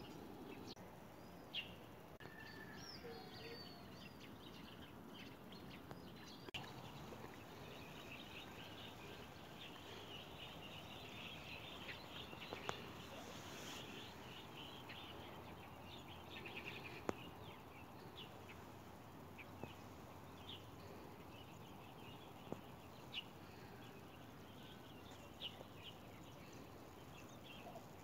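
Small birds chirping and twittering over a faint steady outdoor hiss, busiest in the middle. A few short sharp clicks stand out above it.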